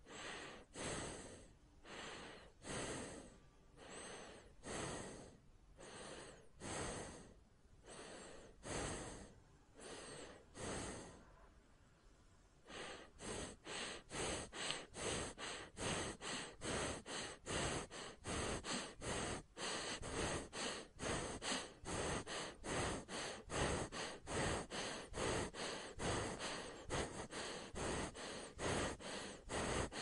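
A person breathing through the mouth and nose, slow and even at about one breath a second at first. About thirteen seconds in it turns to fast, louder panting at two to three breaths a second.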